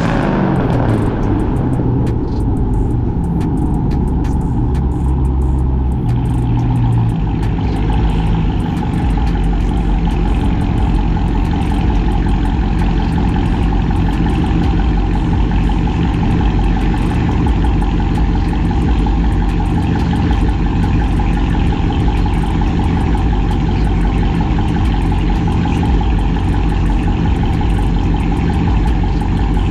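Straight-piped, catless, cammed Chrysler 300C Hemi V8 exhaust. The engine note falls away in the first second, then the engine runs steadily at low revs with a deep, even exhaust rumble.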